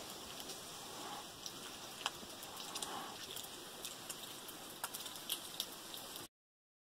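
Light rain falling outdoors: a steady soft hiss with scattered sharp drop ticks. It cuts off suddenly about six seconds in.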